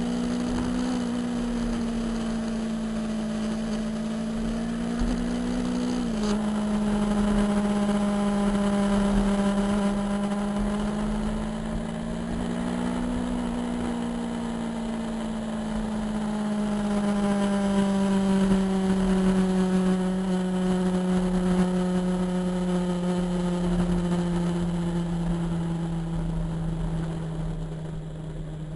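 Motorcycle engine running while riding. Its pitch rises and dips, drops suddenly about six seconds in, then falls slowly through the second half as it slows.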